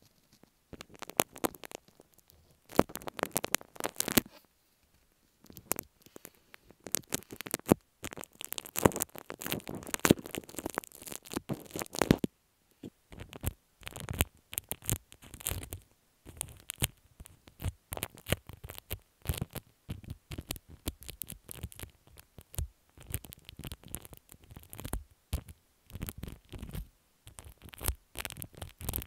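Slime being squished and worked against an earphone microphone: irregular crackling, squelching bursts with short breaks, denser in the first half and broken into shorter crackles later.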